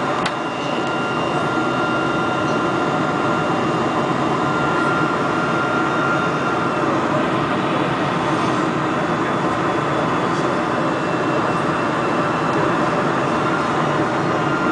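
Steady engine and airflow noise heard inside the cabin of a Boeing 747-400 airliner on its landing approach, with a faint high steady whine over the rumble.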